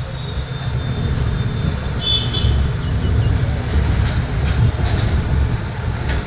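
Passenger train running, heard from beside the moving coach: a steady low rumble of wheels on track. A brief high-pitched squeal comes about two seconds in, and a few sharp clicks between four and five seconds in.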